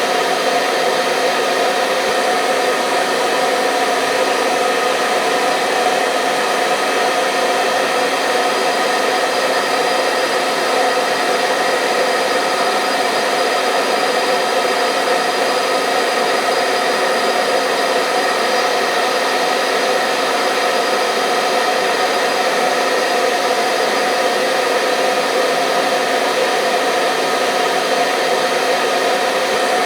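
Hair dryer running steadily: a constant motor whine and rush of air with a fixed hum of several tones, no change in speed or level.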